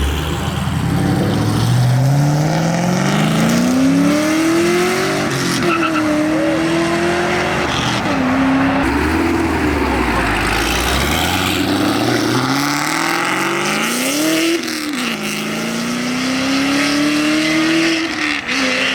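Loud performance car engine accelerating hard, its pitch climbing steeply over the first few seconds, then dropping and climbing again several times as it revs and shifts.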